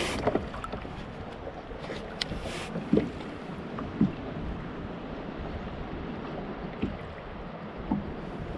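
Steady wash of wind and water around a kayak at sea, with a few short knocks and clunks scattered through it, the loudest about three and four seconds in.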